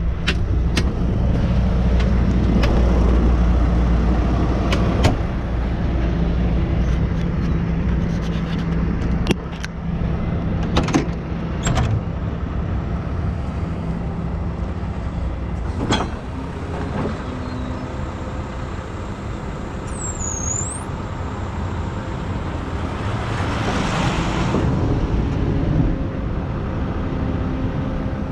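Heavy diesel truck engine running with a low drone, loudest in the first several seconds, with scattered metallic knocks and clanks. A hiss swells and fades near the end.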